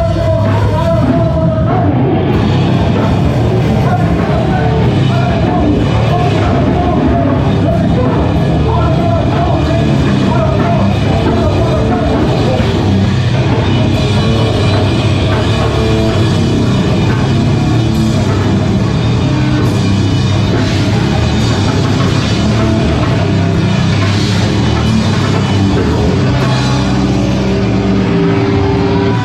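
A live band playing loud, steady heavy rock with a drum kit.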